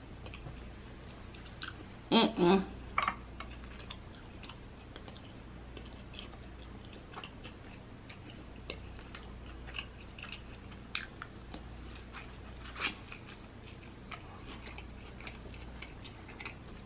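Close-miked chewing of a crisp-fried birria taco: soft crunching and wet mouth clicks, with a brief louder burst about two seconds in.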